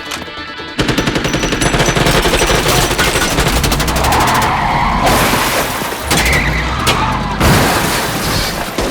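Long, rapid bursts of automatic gunfire, a dense fast rattle of shots starting about a second in after a brief lull.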